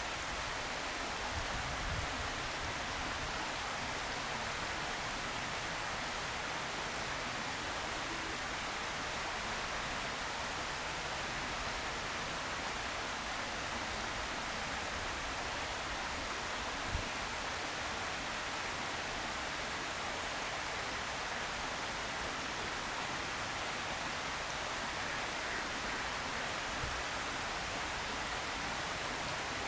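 A steady, even hiss of outdoor background noise, with one faint low knock about halfway through.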